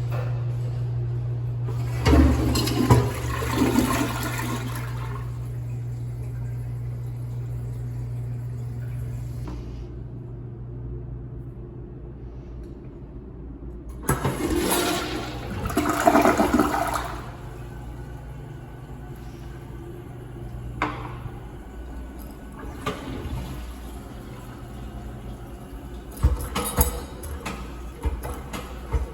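Public restroom toilet flushing twice, a loud rush of water about two seconds in and again around fourteen seconds, each lasting a few seconds, over a steady low hum.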